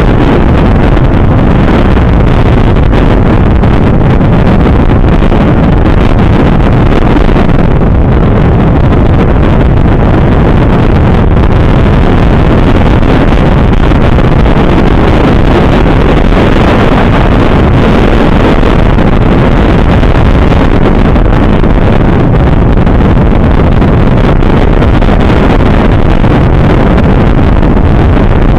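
Steady wind roar on the microphone of a moving motorcycle, with road noise underneath.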